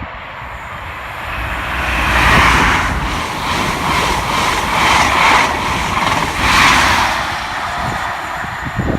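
A train passing through the station, a loud rush of wheels on rail and air that swells, pulses regularly for a few seconds, then dies away near the end.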